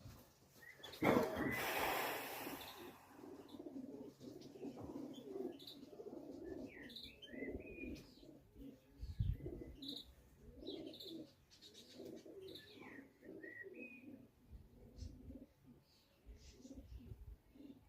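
Pigeons cooing over and over, with small birds chirping higher up. About a second in, a loud rush of noise lasts a couple of seconds and is the loudest thing heard.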